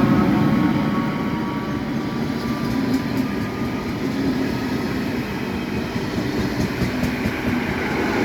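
A MÁV V43 'Szili' electric locomotive pulls an InterCity train away from the station, with a steady rumble of wheels and carriages rolling on the track. A few steady whining tones fade out in the first couple of seconds.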